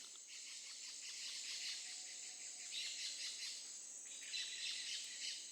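Rainforest ambience: insects droning steadily at a high pitch, with scattered bird chirps over it, faint.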